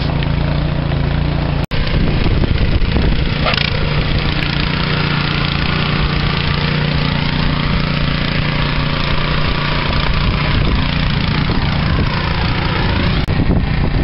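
An engine running steadily, with a constant low hum under a wide rush of noise.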